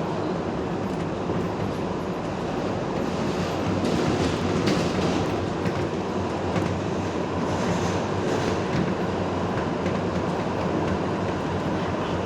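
R142A subway car running between stations, heard from inside: a steady rumble of wheels and running gear, with scattered light clicks from the track.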